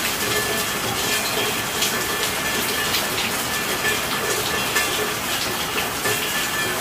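Steady, heavy rainfall: a dense even hiss of rain with individual drops spattering throughout.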